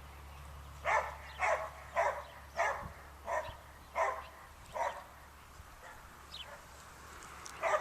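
Dog barking at sparrows: a run of about seven sharp barks roughly every half second to second, then a pause of a couple of seconds before one more bark near the end.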